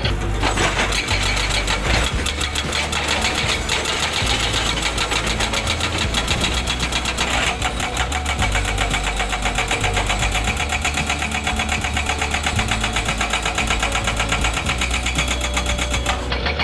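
Hydraulic rock breaker on a Komatsu excavator hammering rock in rapid, even blows, over the excavator's engine running.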